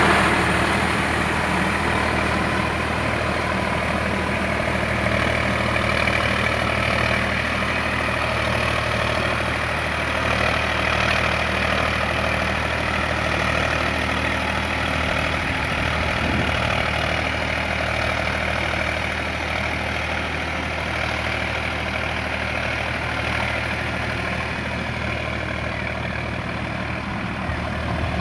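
Sonalika RX 47 tractor's diesel engine running steadily at an even speed.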